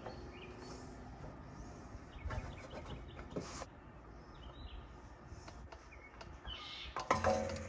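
Birds chirping, with a few knocks and clatters, the loudest near the end.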